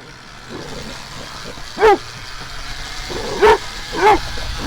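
Dog barking three times, the last two close together, over a hiss that grows louder as the electric dirt bike rides along.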